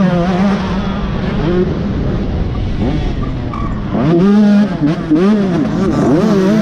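Dirt bike engine running hard, its pitch swinging up and down with the throttle; about four seconds in, the revs climb and drop several times in quick succession.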